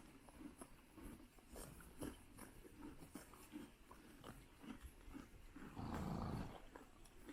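Hutsul horses grazing close by, faint short crunching snips of grass being torn and chewed at an uneven pace. About six seconds in there is a louder breathy burst lasting about half a second.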